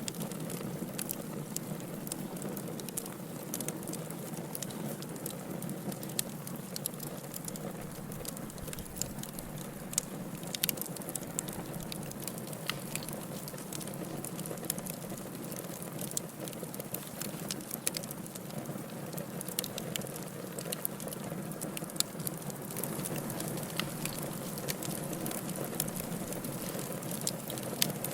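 Firewood burning in a fireplace: a steady low rush of flame with frequent sharp, irregular crackles and pops.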